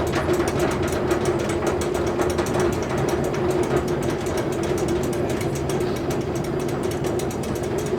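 Sustained snare drum roll: a fast, even rattle of strokes that holds steady over a ringing tone.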